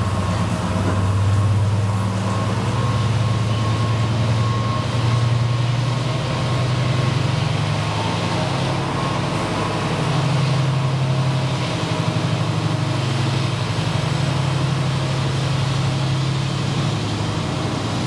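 Diesel locomotive engine running, a steady deep drone with a faint steady whine above it.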